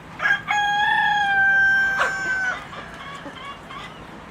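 A rooster crowing once: a short opening note, then a long held note lasting about two seconds that dips slightly in pitch before it cuts off.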